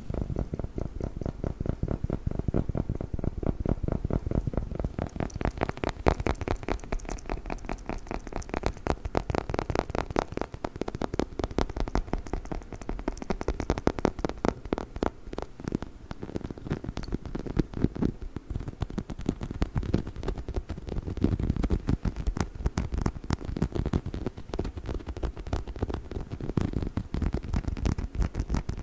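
Rapid, continuous tapping on a dog chicken toy, many taps a second without a break.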